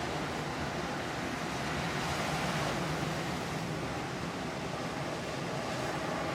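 Ocean surf breaking below the cliffs: a steady wash of waves, with wind on the microphone.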